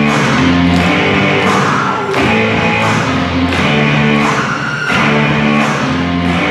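Loud rock music with electric guitar chords over a steady drum beat, with a hit about every 0.7 seconds.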